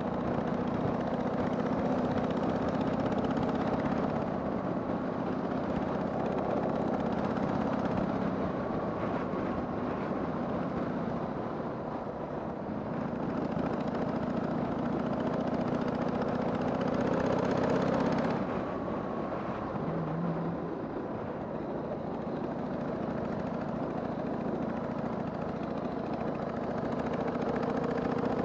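Harley-Davidson Sportster 883's air-cooled V-twin engine running under way, over a steady rush of noise. Its pitch climbs for a few seconds and drops sharply about eighteen seconds in, as the rider shifts or rolls off the throttle.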